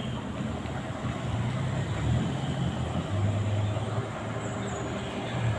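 Heavy diesel engine running near idle, a steady low hum that shifts up and down in pitch a few times.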